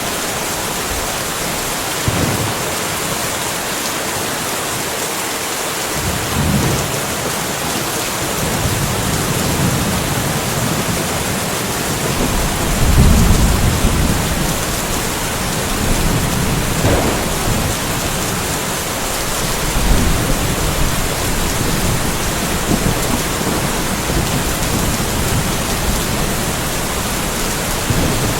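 Steady rainfall of a light thunderstorm, with several low rolls of thunder swelling and fading in the rain; the loudest roll comes about halfway through.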